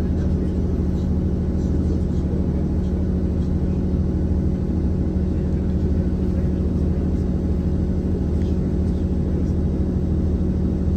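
Steady drone of a passenger train running at speed, heard from inside the carriage: engine and running gear humming, with faint scattered ticks.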